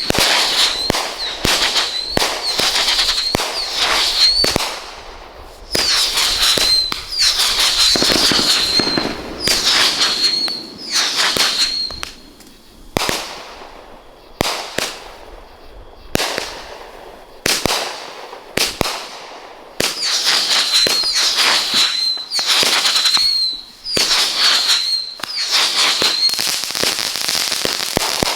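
Brothers 'Sapphire Clan' consumer fireworks cake firing shot after shot, each shell launching and breaking with a loud bang. The shots come in quick runs, thin out to single spaced reports for several seconds in the middle, then pick up again in a dense run near the end.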